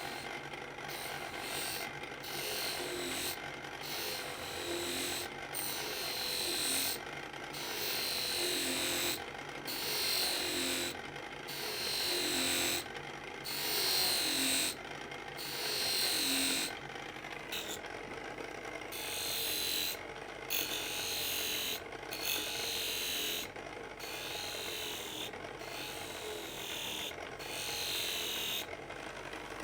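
Knife blade being honed on a motor-driven honing setup dressed with honing compound: the old electric motor runs steadily underneath while the blade is drawn across the hone in repeated strokes, a hissing scrape about every two seconds that stops each time the blade is lifted off.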